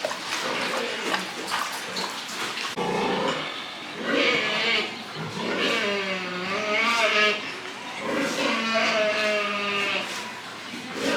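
Pigs calling: after a few seconds of rustling and knocks, three long, wavering squeals follow one after another.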